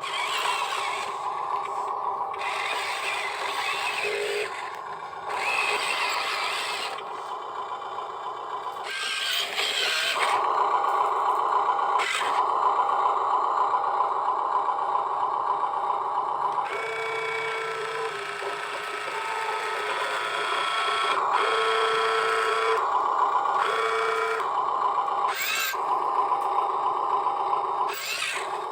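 Small electric gear motors of a radio-controlled model construction machine whining as they run. The whine shifts in pitch and stops and restarts several times, with scraping and rattling.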